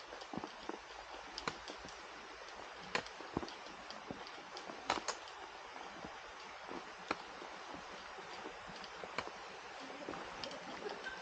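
Irregular sharp clicks and ticks over a faint, steady hiss, the strongest about three and five seconds in.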